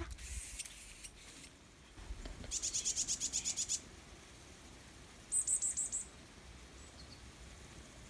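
Varied tit calling: a fast run of high, thin chirps lasting just over a second, then after a short gap a second, shorter run of about half a second.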